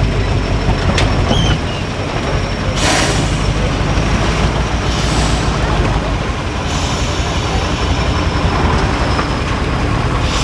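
6x6 Ural truck's diesel engine running with a steady deep rumble, with short hisses about three and five seconds in.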